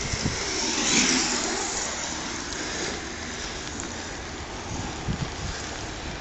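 Steady hiss of rain on a wet outdoor track, with wind buffeting the microphone. About a second in, a louder hiss swells and fades as something passes close.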